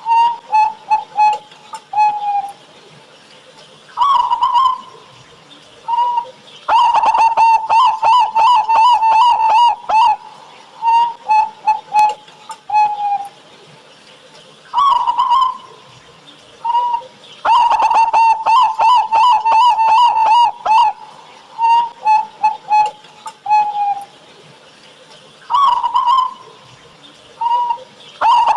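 Zebra dove (perkutut) cooing. Its song phrases repeat about every eleven seconds, each opening on a single note, then a fast run of coos, then a few short separate coos.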